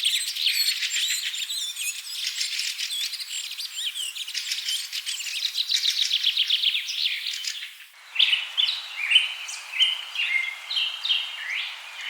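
Many small birds chirping in a dense, continuous chorus; about eight seconds in it cuts abruptly to a different bird song of separate short, clear notes and quick rising and falling whistles.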